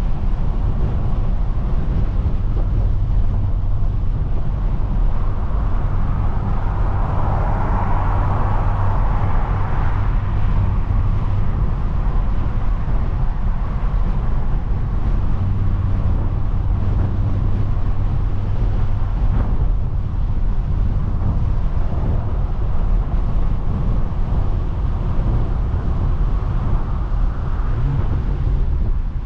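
Straight-piped, big-turbo BMW 340i's turbocharged 3.0-litre inline-six running at a steady engine speed while the car drives along, a constant low exhaust drone with no revving. Road or wind noise rises for a few seconds early on.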